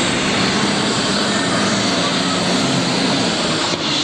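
Super stock pulling tractor's multi-turbocharged diesel engine running loud and steady with its turbo whine, with a brief break near the end.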